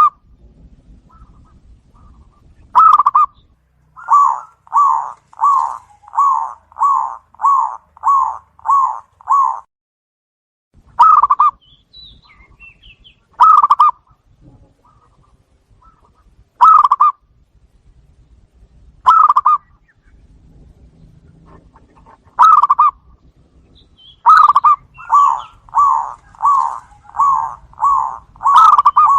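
Zebra dove (perkutut) cooing loudly: single coos every two or three seconds, broken by two quick runs of about eight coos each, one a few seconds in and one near the end.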